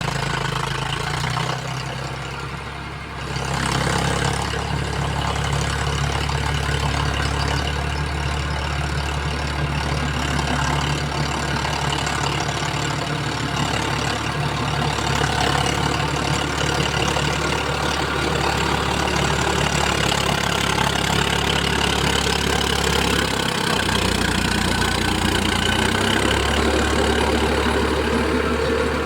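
Farmtrac 60 tractor's diesel engine running steadily while driving a rotavator. It dips briefly about two seconds in, then picks up again at about three and a half seconds.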